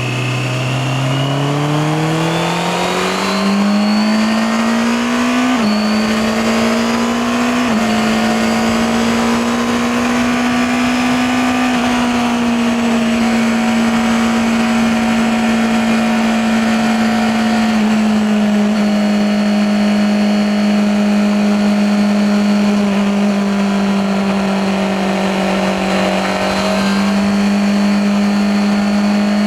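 Honda CBR650R's inline-four engine and exhaust under way. It climbs in pitch over the first few seconds, with quick drops in pitch about six and eight seconds in as the rider shifts up. After that it holds a nearly steady pitch while cruising, easing slightly once or twice.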